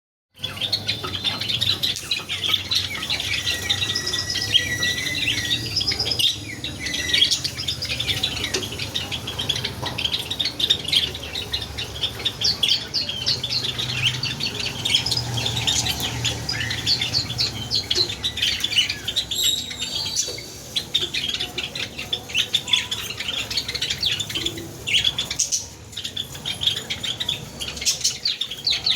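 Many caged Java sparrows chirping together in a dense, continuous chatter of short, high calls.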